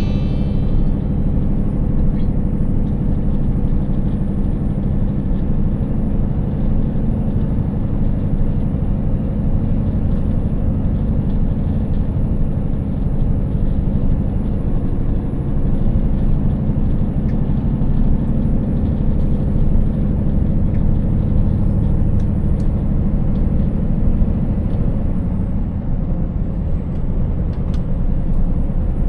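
Scania 590S 16-litre V8 truck engine running steadily while driving, with a continuous low rumble from the engine and road. Near the end the engine note drops for a moment, then picks up again.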